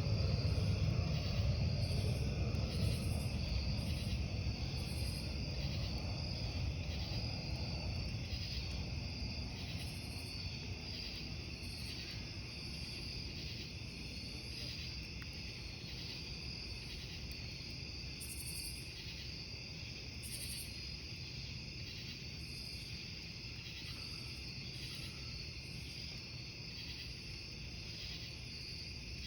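Crickets chirping in a steady, pulsing chorus, with a low rumble that fades away over the first ten seconds or so.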